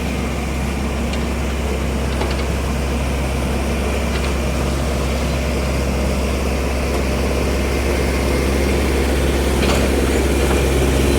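A heavy diesel engine running steadily, with a deep low drone that grows a little louder near the end.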